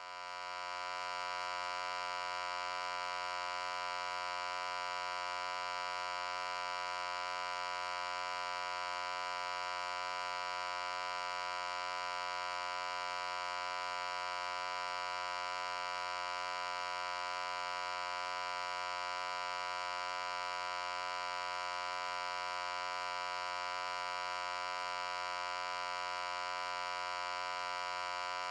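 A steady, unchanging hum with many overtones, fading in over the first second or so and then holding at one level and pitch.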